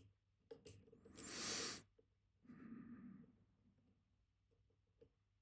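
A person breathing out hard, then a softer sigh, amid a few faint clicks from a pick working in a dimple lock.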